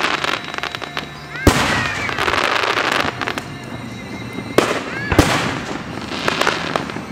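Aerial fireworks bursting: three sharp booms about a second and a half, four and a half, and five seconds in, each followed by a long crackling tail.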